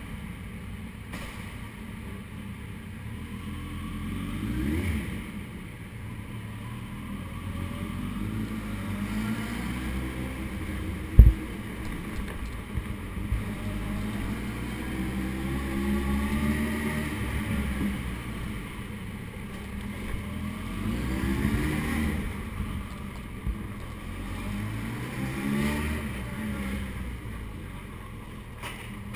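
Suzuki Hayabusa's inline-four engine riding at low speed in an underground car park. The revs rise and fall several times as the bike pulls away and climbs the exit ramp. There is one sharp knock about eleven seconds in.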